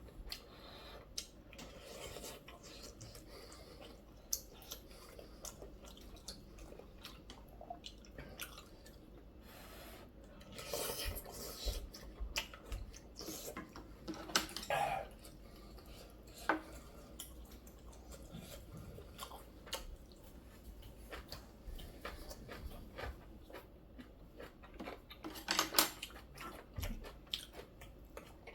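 Close-miked eating sounds from a bowl of green tea kalguksu with sujebi: utensils clicking and scraping against the dishes, with chewing between. There are scattered sharp clicks throughout, and a few louder bursts about a third, halfway and near the end.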